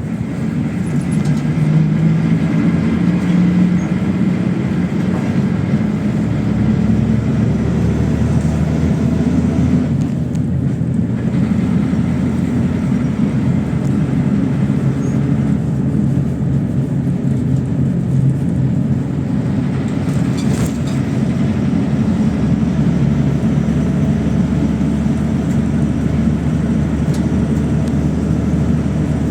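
PAZ 32054 bus driving under way, heard from inside the cabin: a steady low engine and road drone whose pitch rises and falls slightly with speed. There is a short clatter about twenty seconds in.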